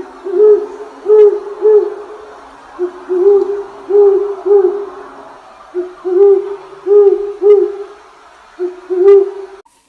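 An owl hooting: short, low, even-pitched hoots in runs of three or four with short pauses between the runs.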